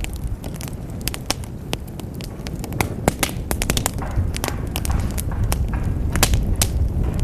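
Wood fire in a fireplace crackling, with frequent sharp pops of varying strength over a low, steady rumble of the flames.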